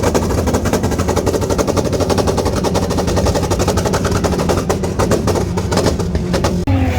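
A rapid, continuous string of sharp cracks, about ten a second, over a steady low hum; the cracks thin out and stop shortly before the end.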